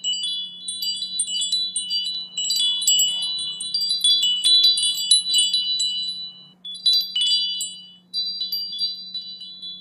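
High chimes tinkling, with many short ringing notes that overlap irregularly and briefly thin out twice. A faint steady low hum runs beneath.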